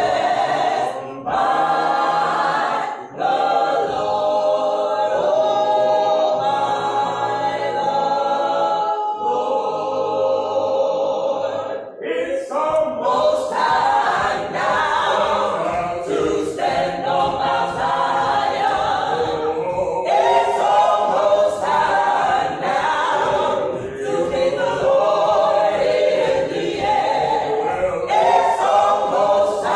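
Gospel choir singing a cappella in harmony: long held chords for about the first twelve seconds, then fuller, more active singing.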